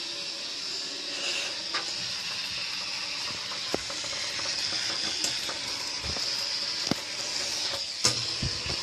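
Steady hiss of running water, with a few short light knocks.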